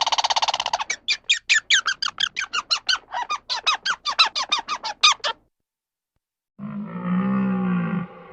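An animal's high, squeaky chirping calls: a quick trill, then a run of short calls about four a second that stops after about five seconds. After a pause of about a second, a deeper, drawn-out animal call begins.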